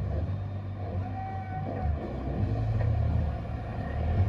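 Engine of a competition pulling vehicle hooked to the weight sled, running with a steady low note.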